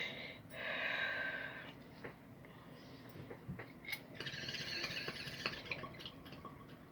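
A person breathing out hard twice after a bong hit, each a long breathy hiss, with scattered small clicks and knocks between them.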